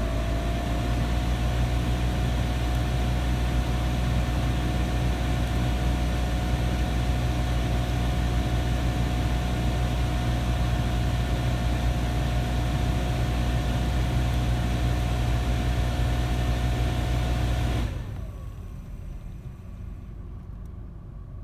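Car engine running steadily with a steady whine over its low hum, the whine rising slightly at first. The running sound drops away suddenly near the end, leaving a much quieter background.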